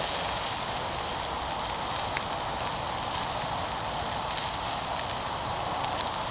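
Steady sizzling hiss of food frying in a pan over a small wood-burning camp stove, with a few faint crackles from the fire.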